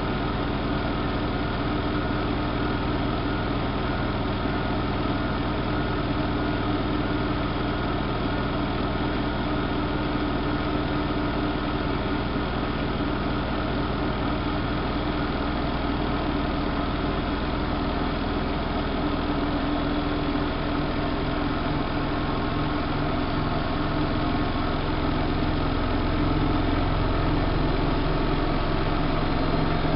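Siemens Siwamat front-loading washing machine spinning, its drum motor running with a continuous hum. About two-thirds of the way through, the pitch of the low hum shifts and the sound grows slightly louder.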